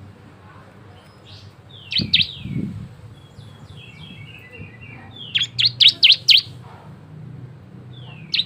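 Ciblek (bar-winged prinia) singing in its varied 'gacor' song: a couple of sharp notes, a short run of falling chirps, then a fast burst of about six sharp, high notes.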